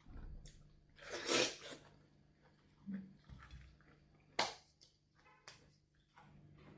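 A short, loud noisy burst about a second in, like a sneeze or a sharp breath, followed by a few sharp clicks and knocks.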